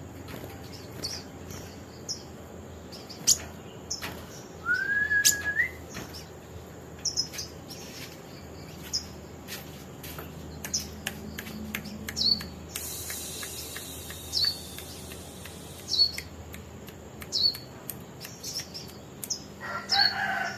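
Small songbird chirping, short high notes about once a second, with one rising whistled note about five seconds in.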